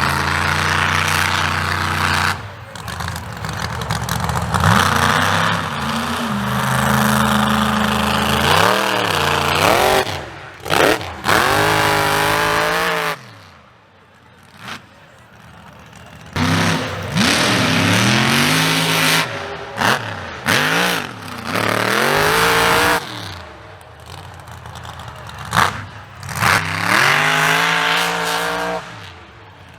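Mega mud truck's big engine revving hard over and over, its pitch sweeping up and falling back, with a quieter lull about halfway through.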